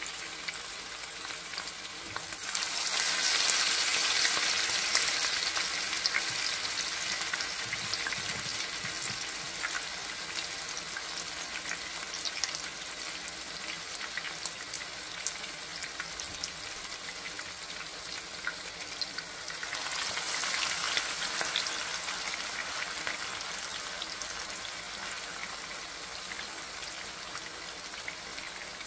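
Chapli kebab patties frying in shallow oil, a steady crackling sizzle. It swells sharply about two seconds in and again about twenty seconds in as fresh raw patties go into the hot oil, then settles.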